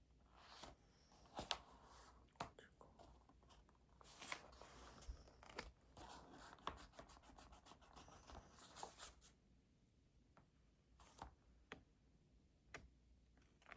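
Faint pen scratching on paper with small taps and paper rustles, thinning out after about nine seconds to a few isolated ticks.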